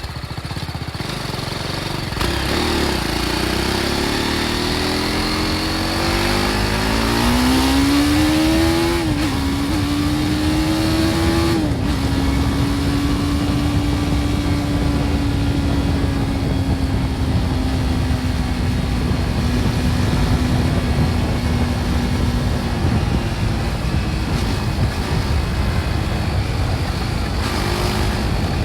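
BMW G310 R's single-cylinder engine on its stock exhaust accelerating, its pitch climbing with upshifts about 9 and 12 seconds in, then settling into a steady cruise that slowly eases off. Wind rushing over the microphone throughout.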